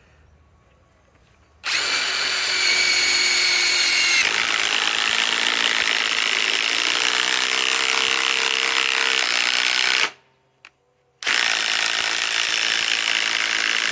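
Ryobi PSBIW25 cordless compact impact wrench driving a lag screw into wood. It starts a couple of seconds in, changes from a high whine to the rattle of impacting about two seconds later, stops at about ten seconds, and starts driving again about a second after.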